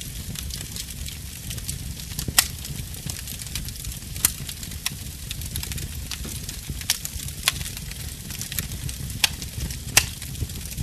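Wood fire crackling: a steady low rumble of flames under a fine hiss of crackle, with sharp pops about every one to two seconds, the loudest about two and a half seconds in and near the end.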